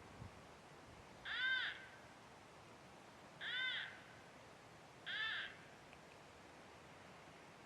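Fawn distress bleats from an electronic game caller, used as a prey-distress sound to call in coyotes: three short, arching cries about two seconds apart.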